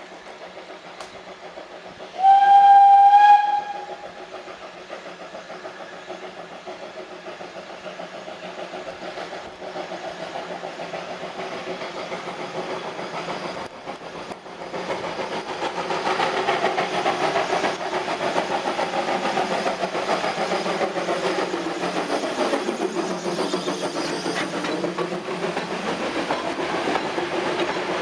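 A steam locomotive's whistle blows once, a short single-pitched toot a couple of seconds in. Then a train runs by on the line, its rumble and rail noise growing louder about halfway through.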